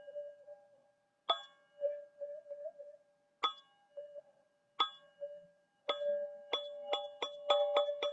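Teal ZenTube sound-healing instrument struck, ringing one clear note with higher overtones. Single strikes come a second or two apart, then quicken into rapid repeated strikes near the end.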